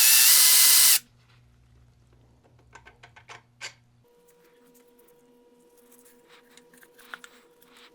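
A handheld power tool running at speed, cutting off sharply about a second in, followed by a few light clicks and taps.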